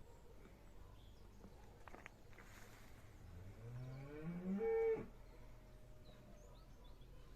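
A cow mooing once: a single drawn-out call that rises in pitch and breaks off sharply about five seconds in.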